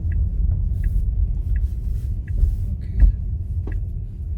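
Car's turn-signal indicator ticking steadily, about once every 0.7 s, over the low rumble of the car driving, heard from inside the cabin. One louder knock comes about three seconds in.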